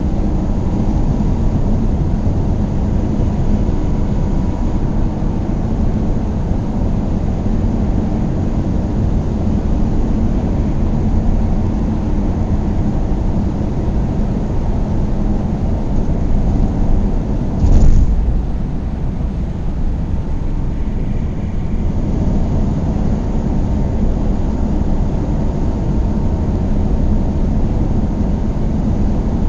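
Car driving at speed: a steady rumble of road and engine noise, with one short, loud thump about two-thirds of the way through.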